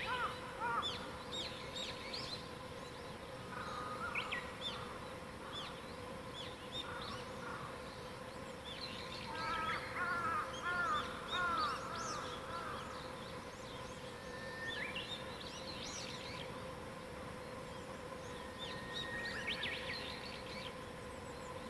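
Wild birds singing in a morning chorus: short phrases of high chirps and whistles come and go, with a louder run of descending notes about halfway through.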